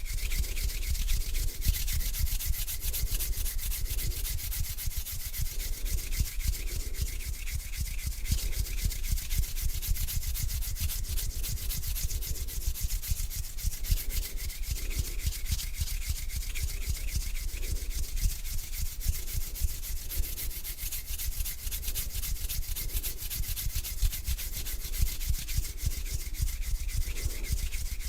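Close-miked hands rubbing together slowly, a dense crackly skin-on-skin friction in slow repeated strokes.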